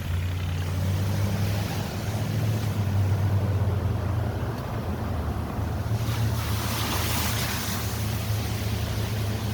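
Steady low engine and road hum of a moving car, heard from inside the cabin, with a hissing rush swelling about seven seconds in.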